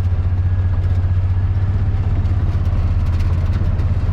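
Vehicle engine idling steadily, a loud, even low rumble with no change in pitch.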